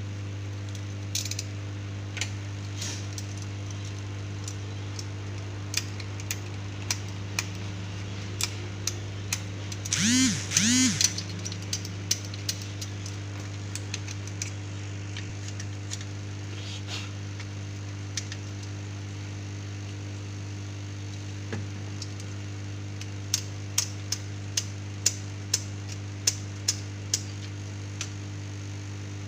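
Steady electrical hum under scattered light clicks and taps of small hand tools working on a TV circuit board. About ten seconds in there are two short pitched sounds, each rising and then falling.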